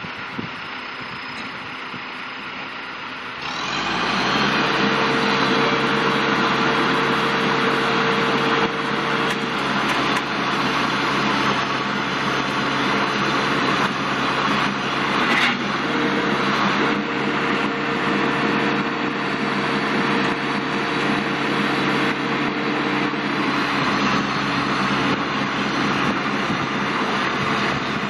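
Backhoe diesel engine running. About three and a half seconds in it rises sharply to a loud, steady working speed, as when the machine is put under load, and it holds there.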